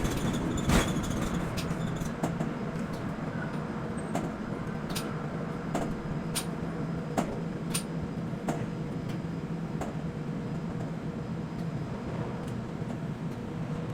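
Steady machinery drone with a low hum, broken by sharp short ticks about once every second or two.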